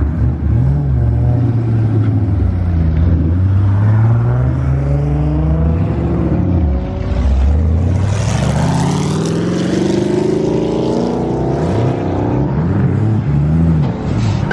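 Car engines revving and accelerating as they pull away, the pitch climbing and dropping again and again. There is a louder rush, a car going by close, about eight seconds in.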